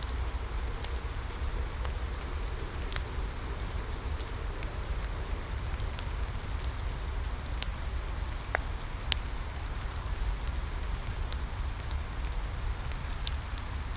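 Steady rain falling, with scattered sharp crackles and pops from a burning wood fire; one pop stands out about nine seconds in.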